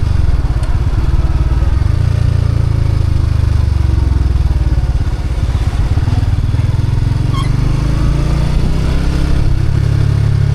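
Motorcycle engine running steadily at a low pitch as the bike is ridden, heard close up from the rider.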